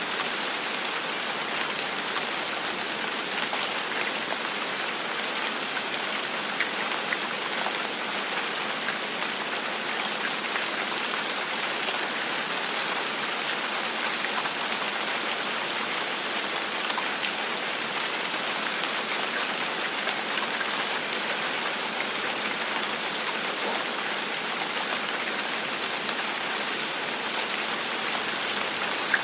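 Steady gentle rain: an even hiss of falling rain with small drop ticks scattered through it.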